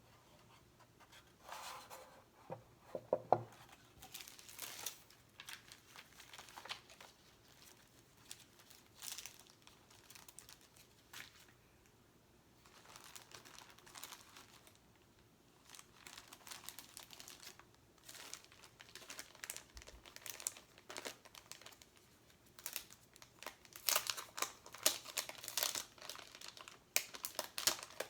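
Stickers and their backing sheets crinkling and being peeled off, in irregular bursts of close-up crackles and rustles that come thickest near the end.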